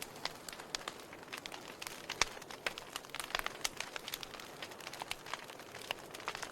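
Logs burning in a fireplace, crackling with irregular sharp pops over a soft hiss. One louder pop comes about two seconds in.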